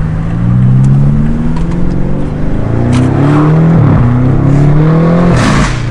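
BMW F90 M5's 4.4-litre twin-turbo V8, breathing through a DunnFab straight catback exhaust, accelerating hard: its pitch climbs, dips at an upshift about four seconds in, climbs again, then the engine lets off near the end with a noisy rush.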